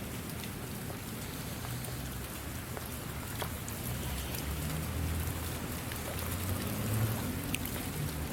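Steady rain with individual drops ticking sharply through the hiss. A low rumble swells underneath in the second half.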